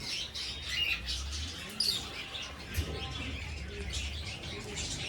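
Many small birds chirping in quick overlapping calls, with homing pigeons cooing low now and then.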